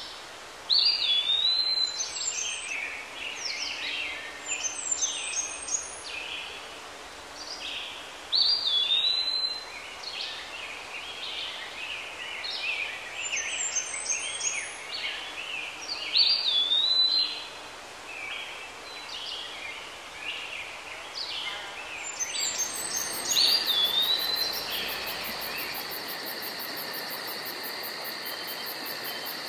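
Songbirds singing in woodland: one bird repeats a loud song phrase with a swooping whistle about every seven or eight seconds, among other chirps. A steady high whine joins near the end.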